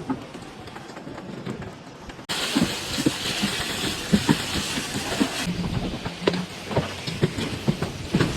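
Irregular metal knocks and clanks from work on Mivan aluminium shuttering, over a hissing background. The sound jumps suddenly louder about two seconds in.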